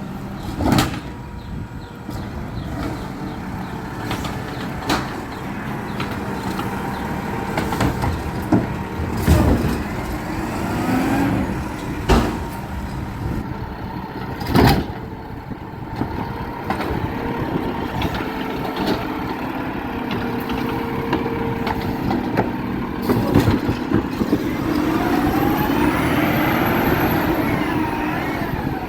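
Garbage truck running steadily, with several sharp bangs and clanks through the middle and a rising and falling whine near the end.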